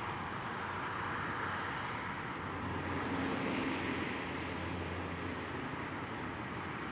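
Distant road traffic: a steady hum and hiss, with one vehicle's engine swelling a little louder for a couple of seconds midway.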